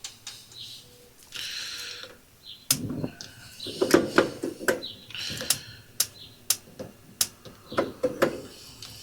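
Gas grill burners being lit: a brief hiss, then sharp igniter clicks repeating roughly every half second to second from about three seconds in, with some knocking of the knobs and grill early in the clicking.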